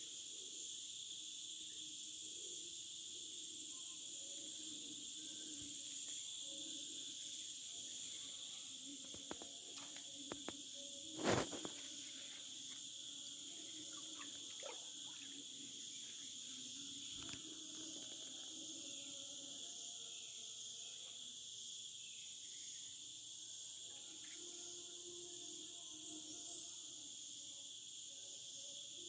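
A steady forest insect chorus: several high, continuous buzzing tones held without a break. A few light clicks come about ten seconds in, with one sharper knock just after.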